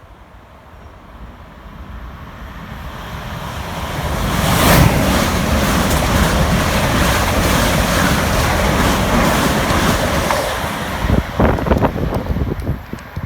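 A train passing through the station: the rush of wheels and air builds steadily, holds loud for several seconds, then falls away, with the slipstream buffeting the microphone near the end.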